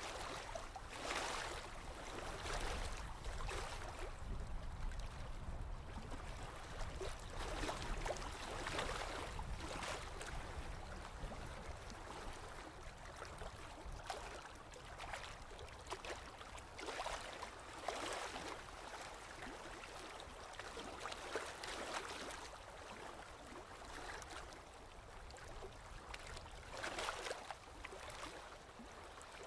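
Small sea waves lapping and splashing, a short splash every second or few at irregular intervals, over a steady low rumble of the sea.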